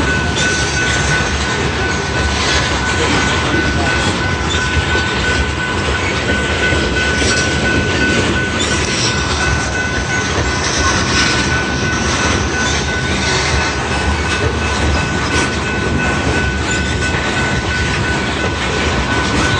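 A long train rolling past close by, a steady loud rumble of wheels on rail with a thin, steady high-pitched squeal running through it.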